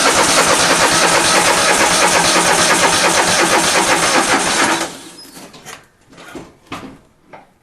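Electric starter cranking the 23 hp Kohler V-twin of a John Deere L130 lawn tractor in a steady, even rhythm for nearly five seconds without it catching, then stopping abruptly; a few faint knocks follow. The engine won't fire because no fuel is reaching the carburetor: its float had stuck.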